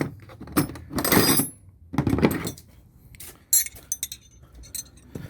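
Metal hand tools clinking and rattling as a wrench is picked out and handled, in several short bursts of clatter with sharp clinks in between.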